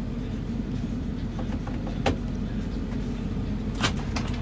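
A steady low motor rumble, with two sharp clicks or knocks about two seconds in and near the end.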